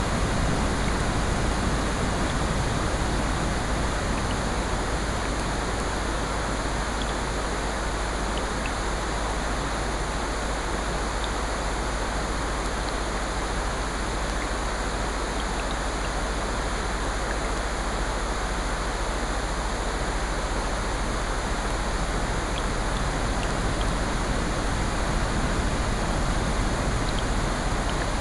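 Layered sleep-sound mix of steady rain and ocean surf with a fireplace, a continuous even wash of noise that swells and eases slowly, with a few faint scattered ticks.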